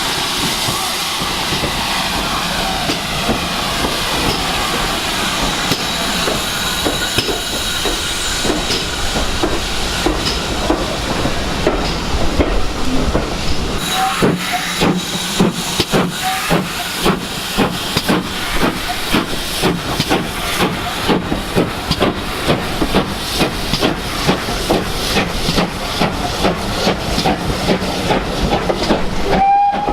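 Steam locomotive and train: a steady hiss of steam, then from about twelve seconds in a fast, regular beat as the train works by.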